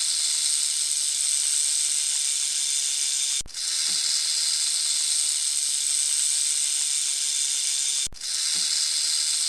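Snake hissing in long, steady hisses, broken by two brief pauses.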